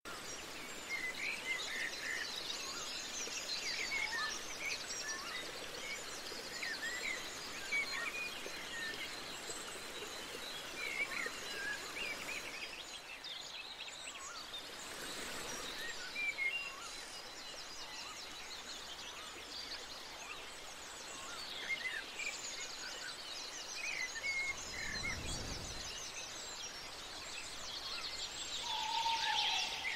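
Many small birds chirping and twittering over a steady outdoor hiss, with a brief low rumble about five seconds before the end.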